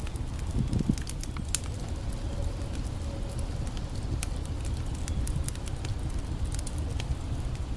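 Campfire crackling, with scattered sharp pops and snaps over a steady low rushing background.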